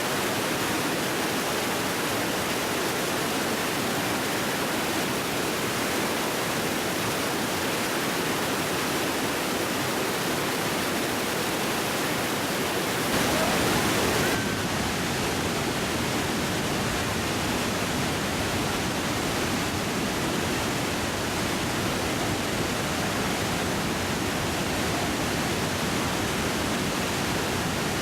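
Iguazu Falls: a heavy waterfall pouring over the cliff, a steady, dense rushing noise, swelling briefly about halfway through.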